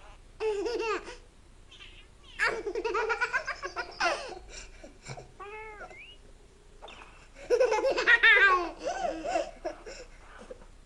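A baby laughing in four bouts of high-pitched, pulsing laughter, the loudest about three-quarters of the way through.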